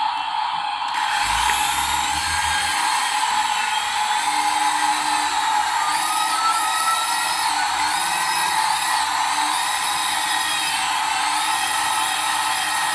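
A small high-speed motor whining steadily, starting about a second in, with faint gliding tones on top.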